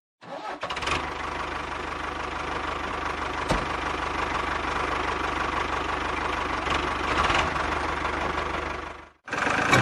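The small motor of a handmade mini tractor running steadily, with one sharp click about three and a half seconds in.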